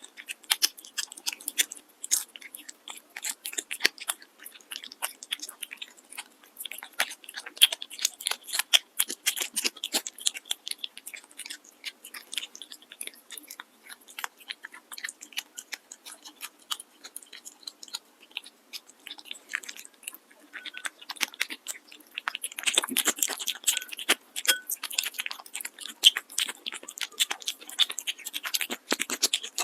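A cat chewing and crunching its food: a rapid, irregular run of crisp crunches and clicks that grows louder and denser about three-quarters of the way through.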